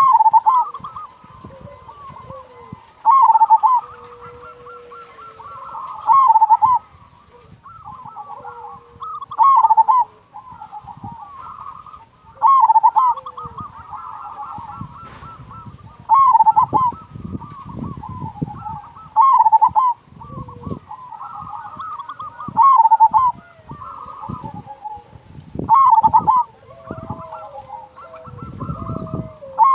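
Zebra dove (perkutut) song, a loud cooing phrase repeated about every three seconds, with other birds calling between the phrases and running water underneath.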